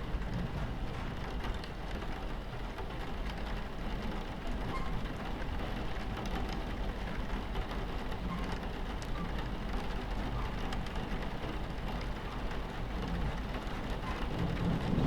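Rain pattering on a train carriage window over the steady low rumble of the train running on its tracks, with faint scattered drop ticks.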